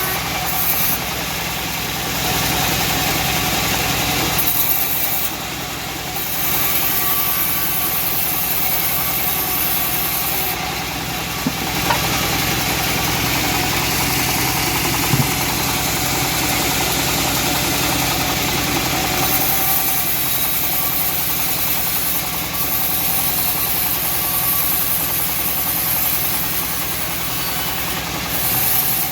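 Homemade bandsaw sawmill running steadily and sawing teak, its motor drone under the hiss of the blade. The higher part of the sound strengthens and weakens every few seconds as the cut goes on.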